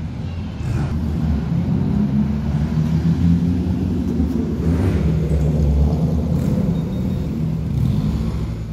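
Chevrolet Camaro engines running at low speed as the cars drive past in traffic. The deep engine note swells to its loudest about midway, as one car passes close.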